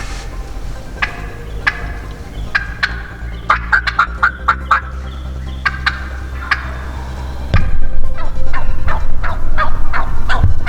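Wild turkey gobbling: a rapid rattling run of notes about three and a half seconds in and a louder one from about seven and a half seconds, with scattered single notes between.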